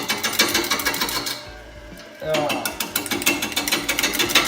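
Tool cutting a spinning birch burl blank on a wood lathe: a rapid, even ticking, about ten strikes a second, as the edge meets the uneven burl surface on each turn. The ticking drops away for under a second near the middle, then resumes.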